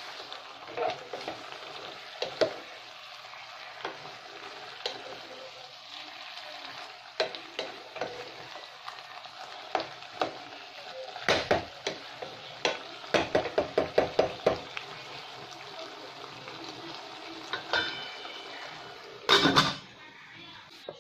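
Vegetables sizzling in a pot while a wooden spatula stirs them, knocking against the pot, with a quick run of taps about two thirds of the way through. Near the end a metal lid clatters onto the pot.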